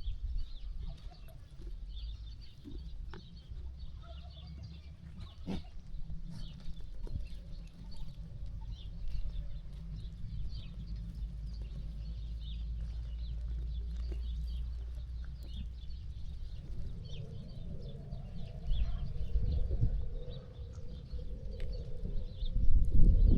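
Flock of sheep grazing and moving about, with scattered small clicks and knocks, faint high bird chirps, and a steady low rumble.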